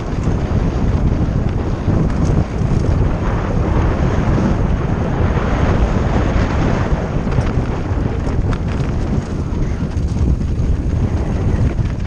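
Wind buffeting the microphone of a mountain biker's camera during a fast downhill ride, over the rolling noise of the tyres, with scattered clicks and rattles from the bike on rough ground in the second half.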